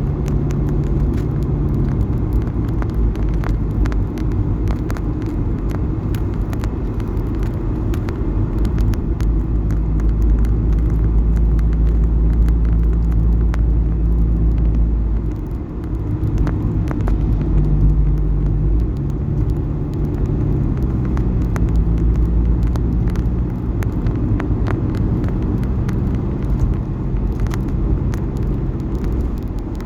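A car driving along a road: a steady low rumble of road and engine noise, with the engine's hum shifting in pitch as the speed changes and dipping briefly about halfway through.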